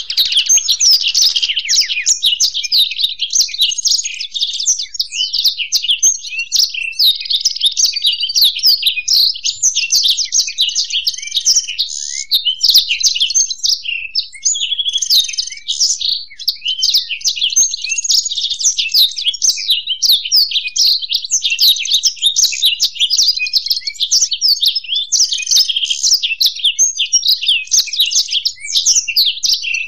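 Black-throated canary (blackthroat) and European goldfinch singing together: a long, unbroken run of fast, high twittering and trilling song.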